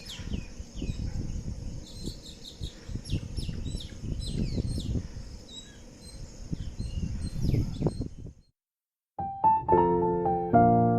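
Many birds chirping with short, falling calls over a steady high hiss and an uneven low rumble, cutting off about eight and a half seconds in. After a brief silence, piano music starts and is louder than the birds.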